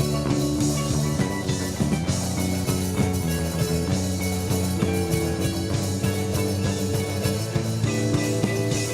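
Rock band playing an instrumental passage in a psychedelic rock style: electric guitar and bass over a steady drum-kit beat.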